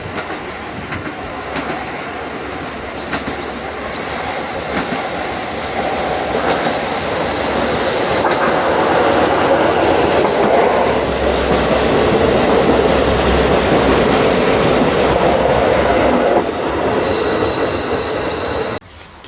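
KiHa 40 diesel railcar train passing: its engine runs and its wheels clatter over the rails. It grows louder to a peak in the second half, then cuts off suddenly near the end.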